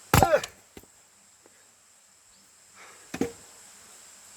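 Two axe blows on firewood logs, a loud one just after the start with a short falling ring as the wood splits, and a lighter one about three seconds later. A steady high insect drone runs underneath.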